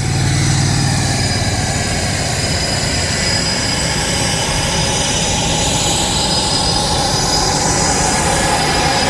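Jet aircraft flying past: loud, steady engine noise with high whining tones that slowly slide in pitch.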